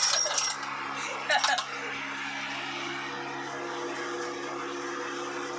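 A steady mechanical hum with a noisy hiss, as of a motor running at a constant speed, with a couple of brief voices and clinks in the first second and a half.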